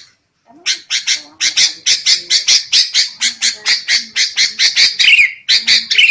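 Sooty-headed bulbul (kutilang) in rowdy, agitated calling: after a short pause, a fast run of harsh chattering notes, about five a second, with a few falling whistled notes near the end.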